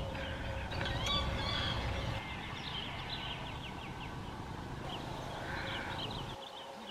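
Birds chirping in many quick, repeated calls, over a low rumble that stops about two seconds in.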